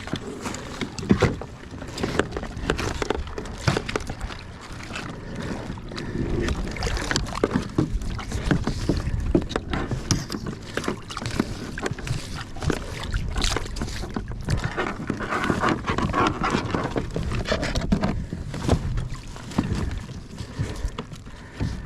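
Kayak on the water: splashing and sloshing mixed with frequent irregular knocks and clatter on the hull and gear.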